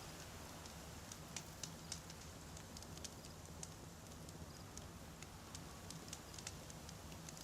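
Wood campfire crackling: scattered sharp pops and snaps from the burning logs, irregular and several a second, over a steady low rumble.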